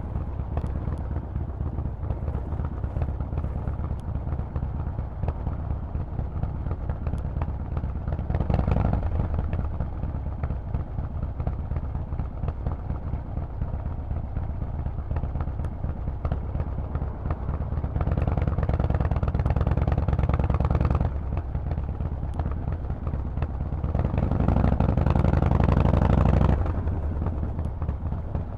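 Harley-Davidson Forty-Eight's air-cooled V-twin running through a Vance & Hines exhaust. It rises to louder throttle openings three times: briefly about eight seconds in, for a few seconds around eighteen seconds, and again around twenty-four seconds.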